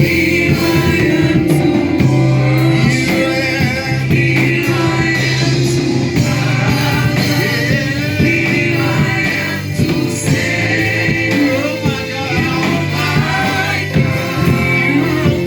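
Gospel choir singing a church song with instrumental backing, the voices moving over steady held bass notes.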